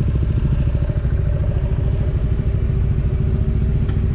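Motorcycle engine running steadily, its low exhaust pulses even and unbroken.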